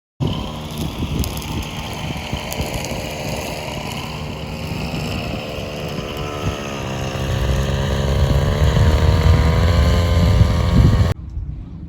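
An engine running with wind on the microphone, its pitch dipping and wavering and its low rumble growing louder in the second half. It starts and cuts off abruptly.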